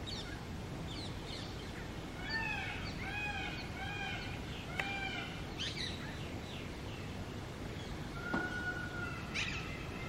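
Birds calling: a run of about five clear, arched notes a couple of seconds in, then scattered short calls, a long held note and a sharp falling call near the end, over a steady low background rumble.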